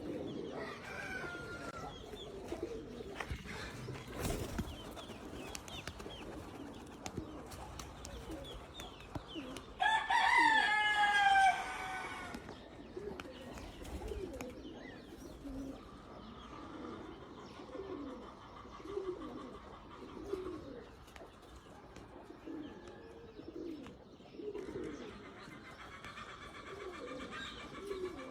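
Qatif pigeons cooing, low repeated coos about once a second. A rooster crows once, loudly, about ten seconds in.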